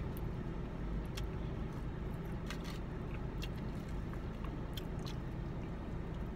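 Close-up mouth sounds of someone eating fried chicken and fries: chewing with scattered short smacks and clicks. Under it runs a steady low rumble inside the car cabin.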